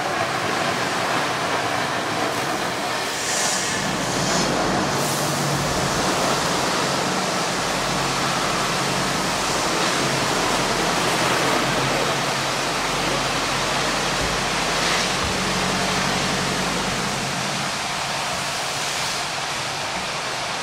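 Steady, loud rush of spraying water from a hangar's overhead suppression system discharging, with a low machine hum underneath.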